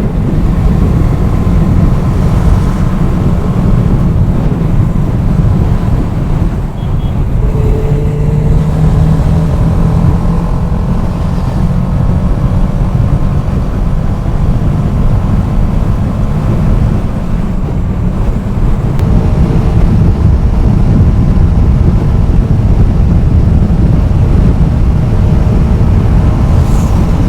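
Benelli TNT 600i's inline-four engine running steadily as the motorcycle rides at road speed, its note climbing briefly about eight seconds in.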